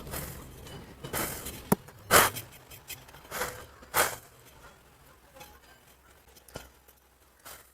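Clay bird-feed pots being handled and emptied of seed husks: scattered sharp taps and knocks with soft rustling and scraping between them, fading to occasional faint clicks in the last few seconds.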